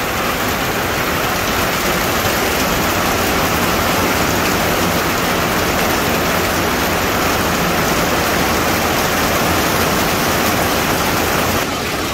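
Heavy rain falling on a greenhouse's corrugated plastic roof panels: a loud, steady rushing hiss with no let-up.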